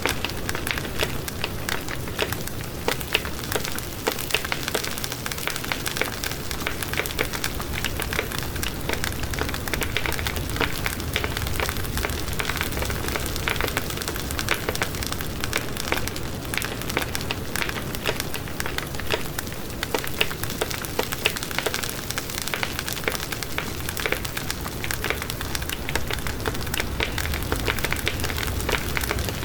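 Wood fire burning in a fireplace: a steady hiss thick with small crackles and pops, dense and unbroken.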